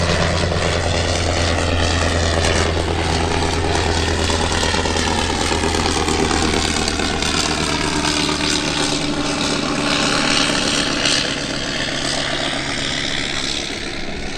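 Piston-engined propeller aircraft flying past. Its steady engine drone sweeps in tone as it passes, and the deep hum fades away about halfway through.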